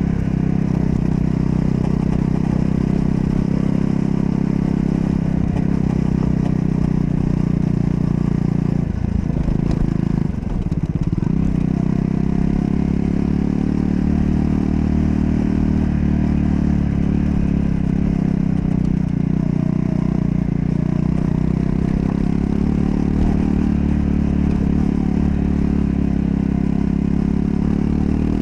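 Triumph Scrambler 400 X's single-cylinder engine running steadily under way. The engine note dips briefly twice, around nine and ten seconds in, then settles back to a steady pitch.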